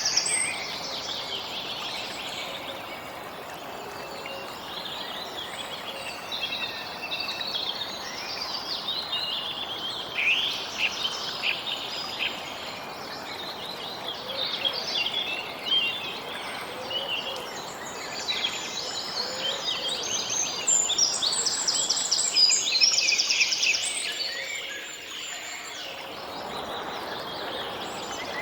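Several songbirds chirping and trilling over a steady background hiss of outdoor ambience, with the birds busiest near the start and again near the end.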